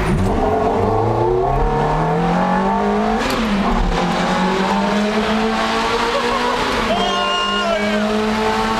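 Ferrari F430's 4.3-litre V8 accelerating hard. The revs climb, drop with an upshift about three seconds in, climb again, and fall back with another shift near the end.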